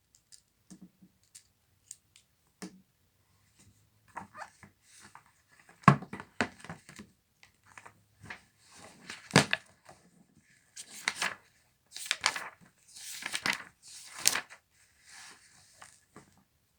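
Paper being handled: sheets of a workbook rustling and crinkling as pages are turned or torn, with scattered light taps and clicks. The rustling grows louder and fuller in the second half.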